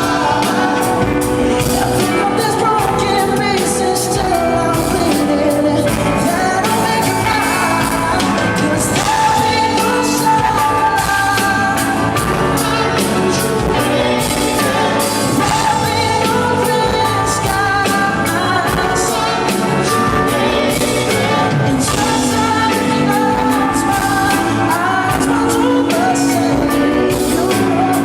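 Live band performing a pop ballad with a lead singer, sung melody over full accompaniment at a steady, loud level.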